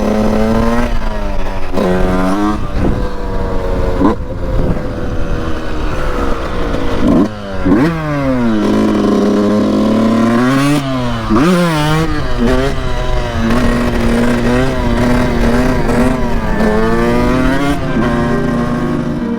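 Motorcycle engine under way, the rider working the throttle through the gears: the engine note rises, drops back and climbs again many times, with a sharp dip and quick rise about seven to eight seconds in. Wind rumble runs under it throughout.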